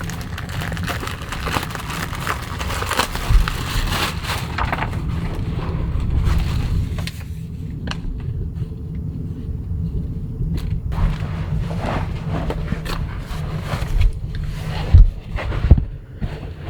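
Low, steady rumble of strong gusting wind buffeting the microphone, with scattered clicks and knocks, a few louder thumps near the end.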